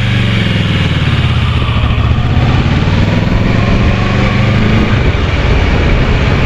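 Kawasaki Versys 650 parallel-twin engine running steadily while riding, its note easing slightly lower partway through, over a steady rush of wind noise.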